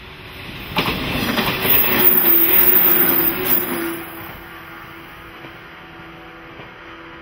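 Shinano Railway 115-series electric train passing close by on a curve, its wheels clattering over the rails. The sound is loud for about three seconds and then fades as the train moves away, leaving a steady low tone.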